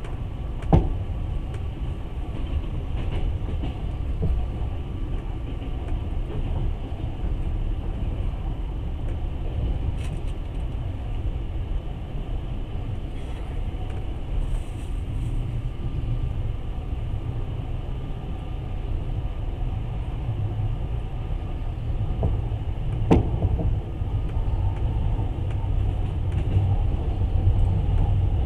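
Passenger train carriage rolling along the track, heard from inside as a steady low rumble. A sharp knock comes about a second in and another about 23 seconds in.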